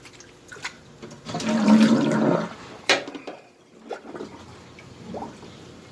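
A short rush of water, about a second long, starting about a second and a half in, with a few sharp knocks around it.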